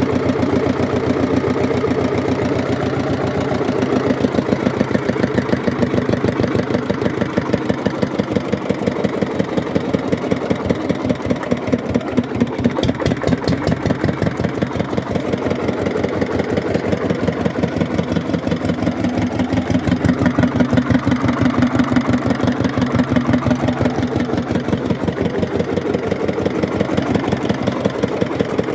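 Hatz diesel engine running steadily, its exhaust beat an even, rapid pulsing that swells slightly in loudness now and then.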